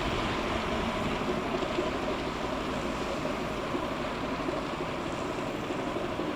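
Steady drone of a passing coastal cargo ship's diesel engine, mixed with the rush of water along the hull and shore.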